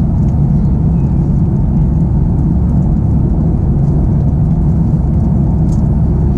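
Steady, loud low rumble inside the cabin of a Boeing 737 airliner: engine and airflow noise, even throughout with no change in pitch.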